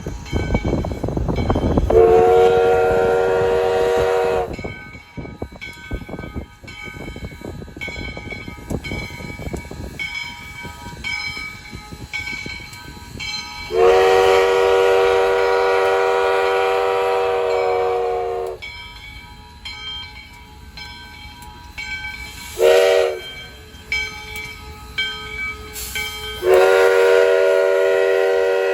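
Steam locomotive's multi-tone chime whistle blowing the grade-crossing signal: two long blasts, a short one, then a long one. Underneath is the noise of the train rolling past.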